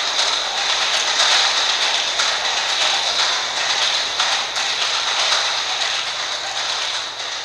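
Many amplified clock mechanisms ticking at once, their ticks blurring into a dense, even clatter. It eases down a little near the end.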